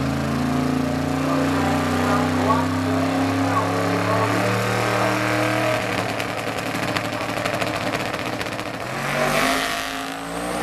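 Drag car's twin-turbo Hemi V8 running at a steady fast idle, its pitch creeping up slowly, then dropping back with a spell of crackling and rising again near the end.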